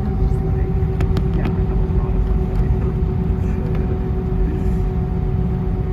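Steady cabin noise of an Airbus A320: a dense rumble with a constant hum, and three short clicks about a second in.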